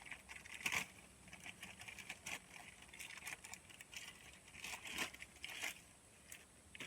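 Faint, scattered light clicks and rustles of handling, with no steady machine running.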